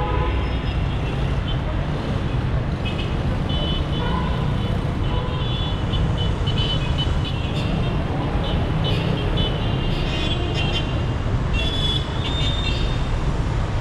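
Busy city street traffic: a steady rumble of car, bus and motorbike engines, with short high-pitched toots and chirps breaking in again and again over it.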